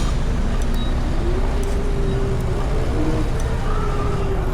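Street traffic noise with a heavy low rumble, and a faint steady tone entering about a second in.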